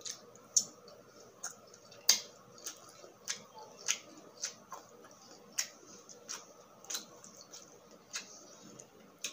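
Close-miked chewing of grilled skewered street food: a string of short, sharp wet crunching clicks, about one or two a second.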